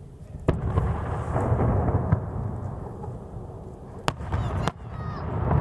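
Aerial fireworks shells bursting: a sharp bang about half a second in followed by a long low rumble, then another sharp crack about four seconds in.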